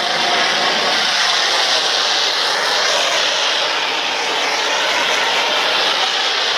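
Car-wash foam machine spraying snow foam: a loud, steady hiss of air and foam.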